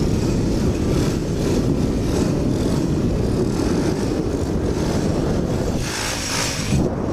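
Pit bike's small engine running at low speed, heard from a helmet-mounted camera under a steady rushing noise, with a brief louder hiss about six seconds in.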